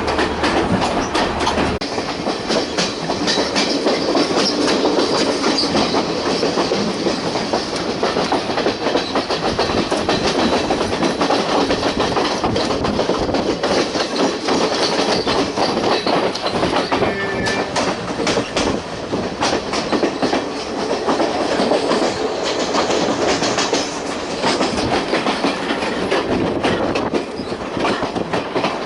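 Passenger train running along the track, heard from on board: a steady rumble and rattle, with the wheels clicking over the rail joints.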